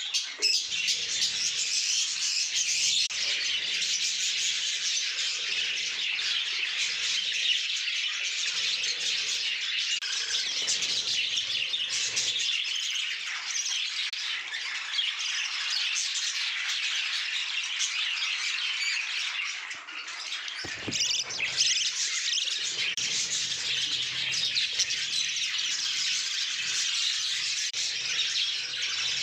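A flock of budgerigars chattering: dense, continuous chirping and warbling from many birds at once, with a brief lull about twenty seconds in.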